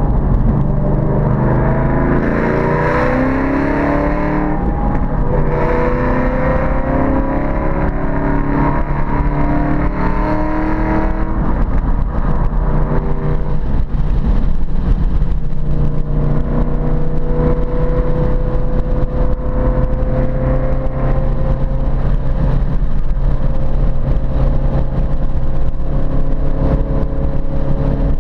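Ford Mustang Boss 302's 5.0-litre V8 under load, revving up through the gears with a shift about five seconds in. It eases off a little after ten seconds, then the revs climb slowly and steadily through the second half.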